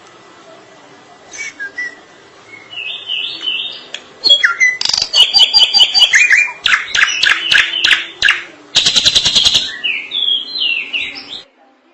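Drongo (srigunting) singing a long, varied song: whistled notes, then a loud run of sharp chirping phrases. Near the end comes a fast rattle, then a few falling whistles before it stops.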